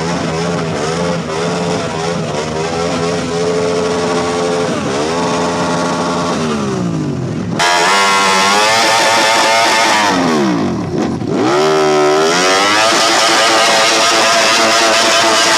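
Motorcycle engines running and revving, their pitch holding, then dropping and climbing again several times. The sound gets suddenly louder about eight seconds in and stays high-pitched and steady near the end.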